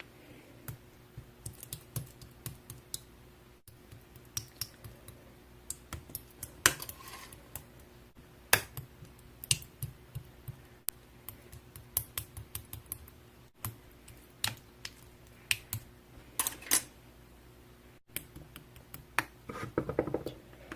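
Slime being squeezed and poked by hand, giving quiet, irregular sticky clicks and small pops, with a few softer squelches. A faint steady hum runs underneath.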